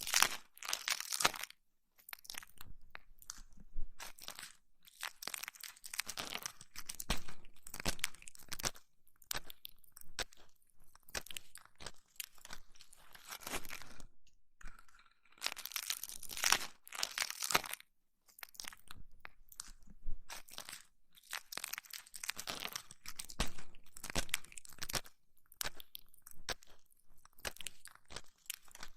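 Close-miked ASMR ear massage on an ear-shaped microphone: crunchy rubbing and scratching in irregular strokes, with a few short pauses.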